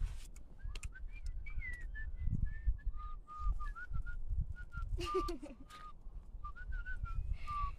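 A bird singing a run of short whistled notes, some sliding up or down and some held on one pitch, over a low rumble.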